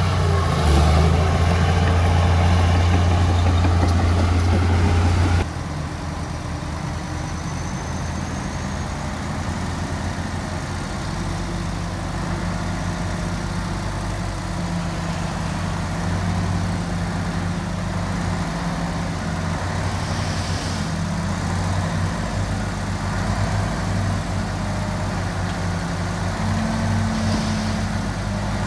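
Diesel engines of a small bulldozer and dump trucks running steadily. The sound drops abruptly about five seconds in to a quieter, steady engine drone.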